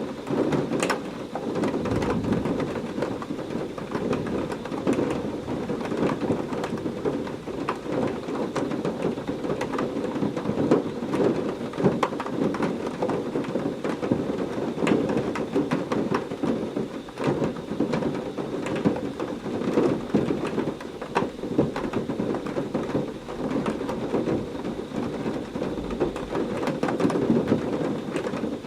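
Heavy rain falling steadily: a dense, even patter with many sharp close drop hits.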